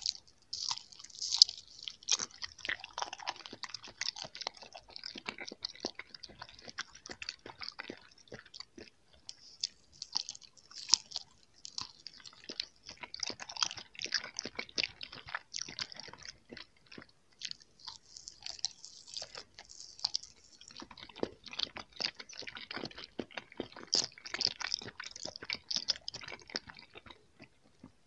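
Close-miked chewing and biting of a soft gummy jelly candy: a dense, unbroken run of quick mouth clicks and smacks.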